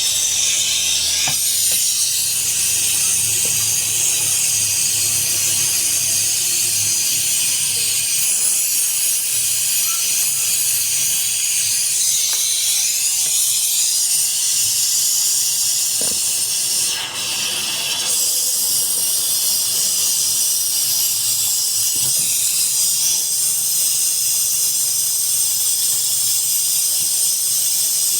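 Loud, steady hiss that dips briefly about two-thirds of the way through.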